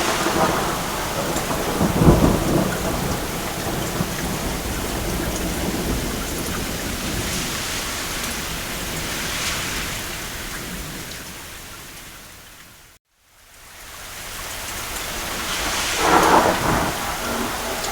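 Steady rain on a roof with rumbles of thunder, the strongest low rumble about two seconds in and another swell near the end. About two thirds of the way through the sound fades out to silence and fades back in, the join of a looped recording.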